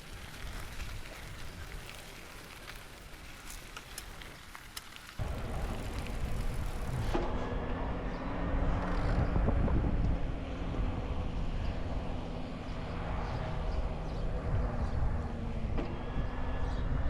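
Wind and rolling noise from a bicycle ride, jumping louder about five seconds in. A steady low hum joins from about seven seconds in.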